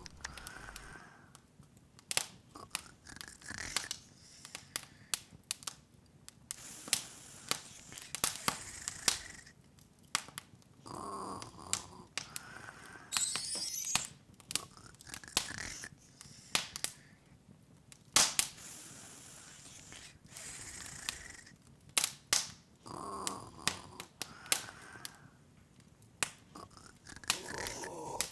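Open fire crackling, with irregular sharp pops and snaps. A brief rising shimmer sounds about 13 seconds in.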